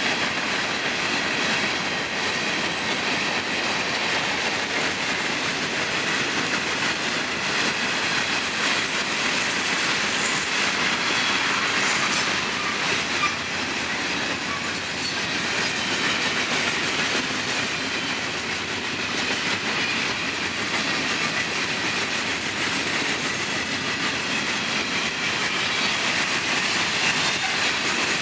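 Freight cars of a long Florida East Coast Railway train rolling steadily past, with wheels clacking over rail joints and faint wheel squeal. There is a single sharp clank about thirteen seconds in.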